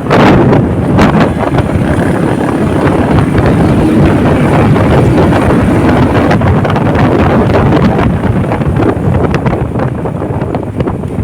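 Wind buffeting the microphone of a moving motorcycle, a loud steady rush with the engine and road noise underneath.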